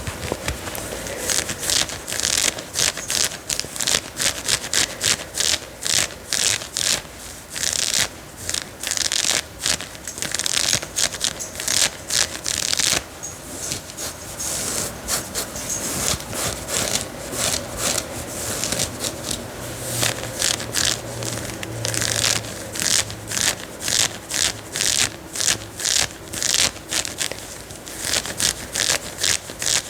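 Scratching on the fabric of a denim jean jacket, quick rasping strokes in fast runs, broken by a few longer, steadier rubs.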